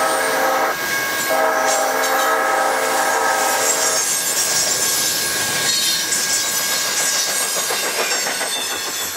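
Double-stack container freight train rolling through a curve, wheels squealing and clattering over the rail joints. A multi-chime train horn sounds a blast that ends about a second in, then another of nearly three seconds. The sound fades near the end.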